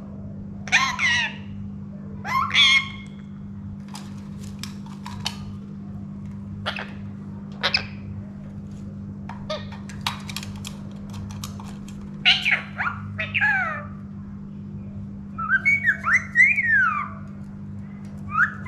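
Indian ringneck parrot giving short squawks and whistled calls, several gliding in pitch, in scattered bursts with gaps between, along with a few quick clicks.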